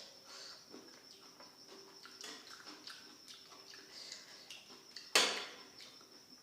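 Close-up chewing and mouth sounds of someone eating chow mein and gobi manchurian: irregular soft clicks and smacks, with one louder sudden noise about five seconds in. A faint steady high-pitched tone sits underneath.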